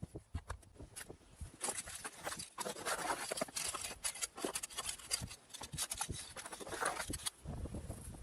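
Irregular scraping strokes with short clicks, a shovel working sand while backfilling against a foundation drainage membrane.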